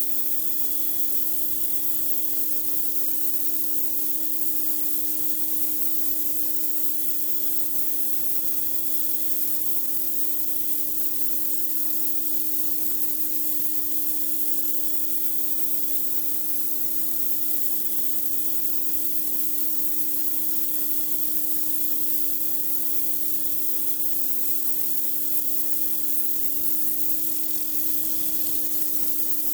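Pressure washer running continuously, its high-pressure water jet hissing as it blasts grime off a driveway, over the machine's steady hum.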